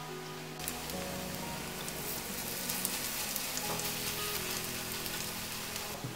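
Grated-apple pancakes sizzling and crackling in hot oil in a frying pan as batter is spooned in. The sizzle starts suddenly about half a second in and cuts off near the end, with soft background music under it.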